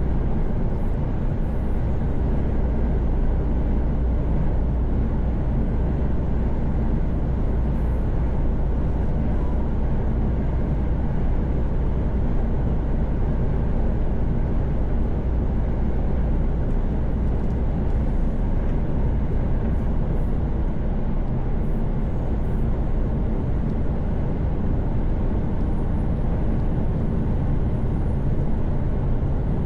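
Mercedes-Benz Actros truck cruising on a motorway, heard from inside the cab: a steady engine drone with tyre and road noise.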